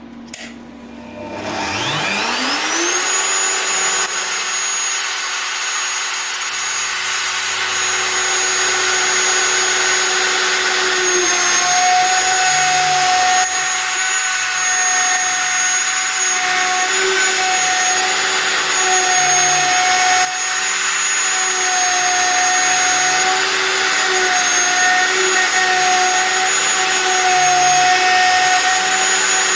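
Spindle of a homemade CNC router spinning up with a rising whine over the first couple of seconds, then running at a steady high whine. The tone shifts about eleven seconds in, and low hums come and go underneath.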